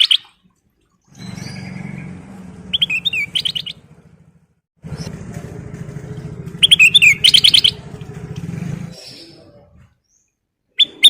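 Kutilang emas, a bulbul, singing two short, quick phrases of rising-and-falling whistled notes, about three and seven seconds in. Under the song, a low hum like a motor runs twice, stopping near the end.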